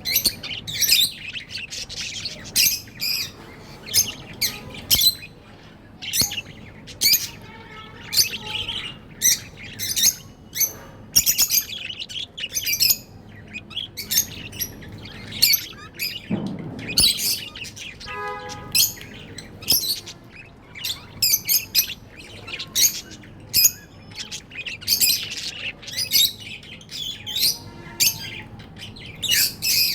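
Pet budgerigars chirping and squawking: a busy, continuous stream of short, high-pitched chirps.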